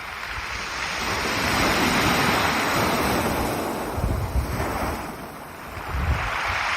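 Ocean surf washing up and drawing back over a beach of pebbles. The wash swells, eases a little about five seconds in, then swells again.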